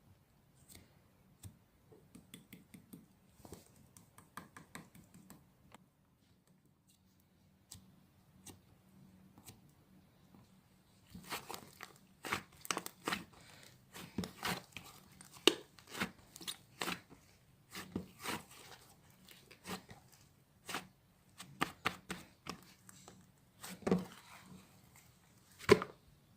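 Slime being squeezed and stretched by hand, giving a run of sticky clicks, pops and crackles. It is sparse and soft at first and gets busier and louder about halfway through, with a couple of sharp pops near the end.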